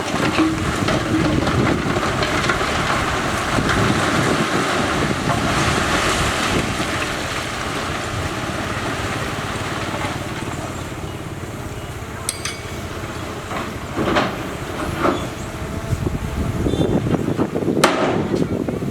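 Heavy construction machinery running steadily, with a few sharp knocks in the last few seconds.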